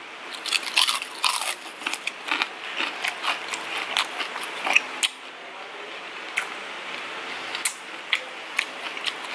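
Close-up crunching and chewing of deep-fried pungko-pungko street food, bitten by hand. The crackly crunches come thick and fast for the first few seconds, then thin out to scattered clicks of chewing.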